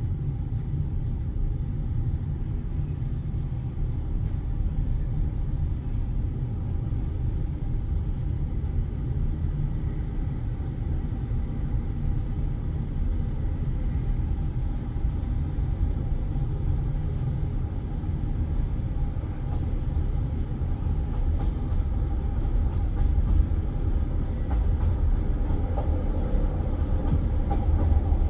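Low, steady rumble of a passenger train heard from inside the carriage, growing a little louder over the last few seconds.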